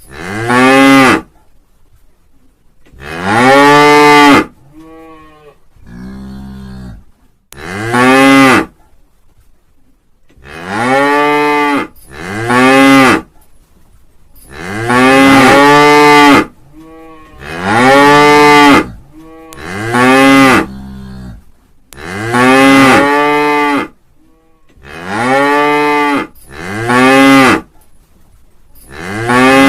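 Cattle mooing over and over: about a dozen loud moos, one every two to three seconds, each rising and then falling in pitch, with a couple of fainter, lower moos in between.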